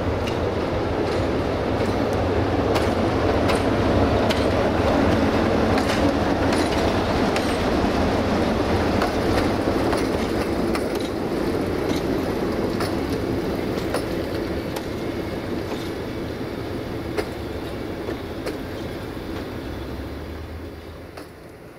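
A diesel-hauled train rolling past. A steady low engine drone mixes with wheels clicking over rail joints. It is loudest about five seconds in, then fades away.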